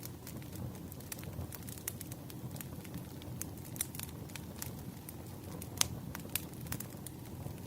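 Wood campfire crackling: irregular sharp pops and snaps over a low steady rumble of flames, with one louder pop about six seconds in.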